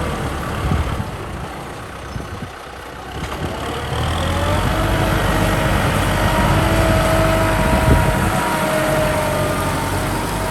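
Kubota M6040 tractor's diesel engine running. It drops quieter about two seconds in, then grows louder from about four seconds in, with a faint steady whine over the engine noise.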